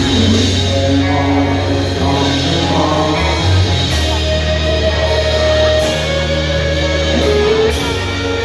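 Live rock band playing amplified, with an electric guitar melody over held bass notes and a few sharp high hits.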